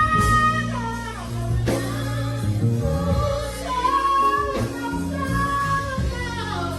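Gospel worship music: singing in long held notes that glide from one pitch to the next, over a sustained instrumental backing.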